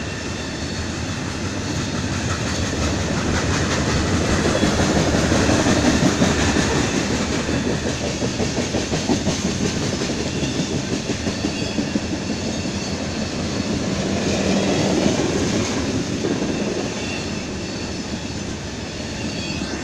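Freight train of covered hopper cars rolling past, steel wheels rumbling and clattering in a fast rhythm over the rail joints, swelling louder twice as cars pass closest.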